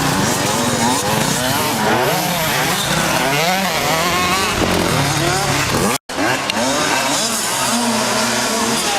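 85cc two-stroke motocross bike engine revving up and down as it rides, its pitch climbing and dropping again and again. The sound cuts out for an instant about six seconds in, then the engine carries on.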